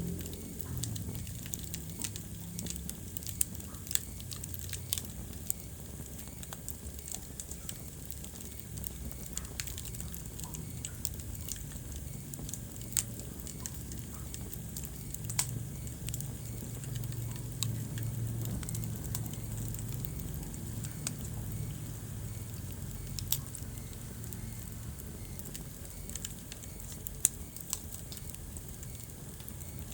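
Wood fire crackling in a fireplace: scattered sharp pops and snaps at irregular intervals over a low, steady rumble of burning.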